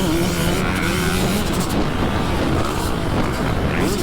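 Dirt bike engine running hard while riding on a motocross track, its pitch holding and then dipping as the throttle changes.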